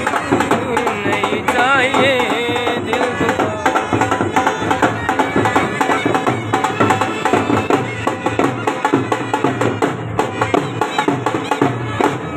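Haryanvi folk band music: a wavering, piping melody over steady drumming.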